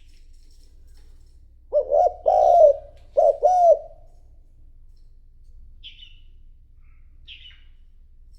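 Spotted dove cooing one phrase of four low notes, short–long–short–long, a little under two seconds in. A small bird gives a few short high chirps at the start and twice near the end.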